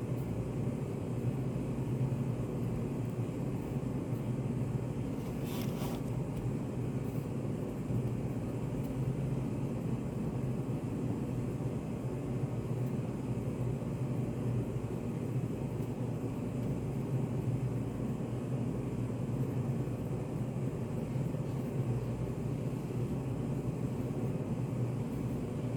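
Steady, low, rumbling study-cafe white noise, even and unchanging, with a brief soft hiss about six seconds in.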